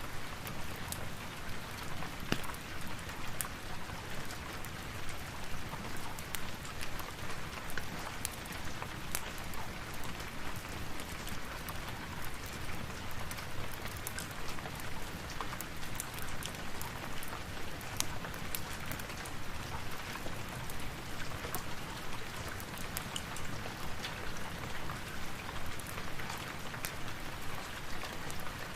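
Steady rain, an even patter, mixed with frequent sharp crackles like those of a wood fire.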